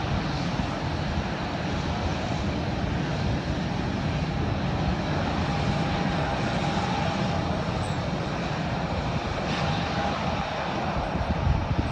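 Airliner engines running steadily with a faint high whine held through the second half.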